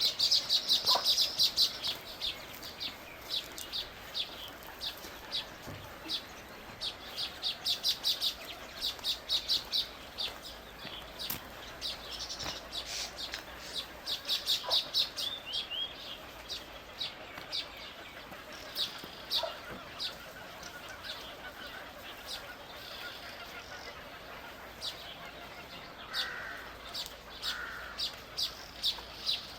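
Small birds chirping: rapid runs of short, high chirps lasting a second or two, repeated several times, with single chirps scattered between.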